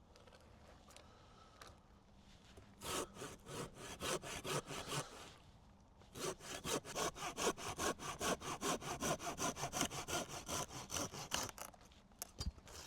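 Hand saw cutting through wood with quick, even back-and-forth strokes, in two runs with a short pause between them.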